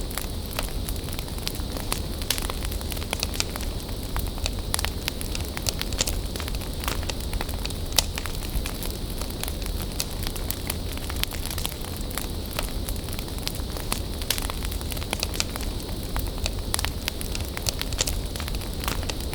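Bonfire burning: a steady low rush of flame with irregular crackles and pops of burning wood, one louder pop about eight seconds in.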